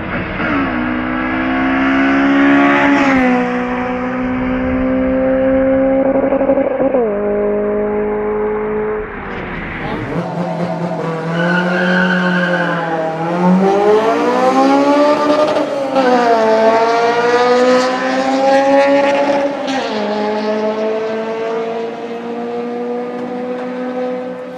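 Honda K20 inline-four engine accelerating hard, its pitch climbing through the revs and dropping sharply at each gear change, several shifts in all. About ten seconds in the sound changes abruptly, then the revs fall and climb again before more upshifts.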